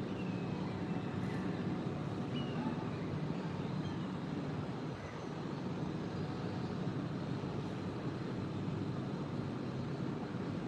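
Steady low background rumble, like distant traffic noise, with a few faint, short high chirps in the first few seconds.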